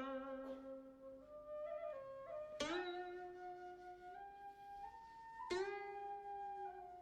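Slow traditional-style background instrumental music: a sustained, flute-like melody that steps between held notes, with sharply struck notes about every three seconds.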